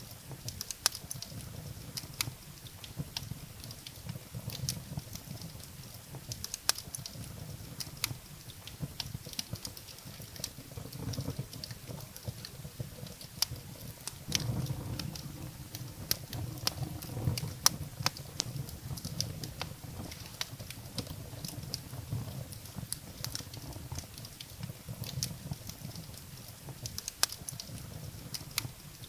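Wood fire burning in a fireplace: firewood crackling with irregular sharp pops, several a second, over a low steady rumble of flame.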